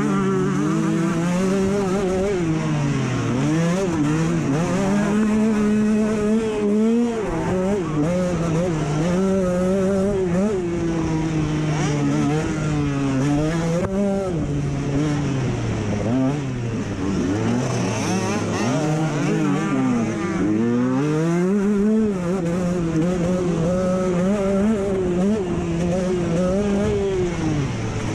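Off-road motorcycle engine ridden hard, revving up and dropping back again and again as the throttle opens and closes and gears change.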